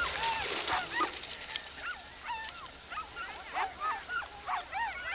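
Sled dogs barking and yipping excitedly, short high calls coming faster and overlapping in the second half.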